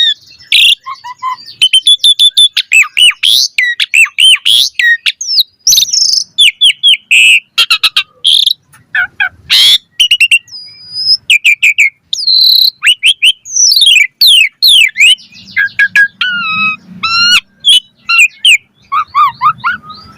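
Asian pied starling (jalak suren) singing a long, varied song: rapid chirps, rising and falling whistles and harsh squawky notes following one another almost without pause.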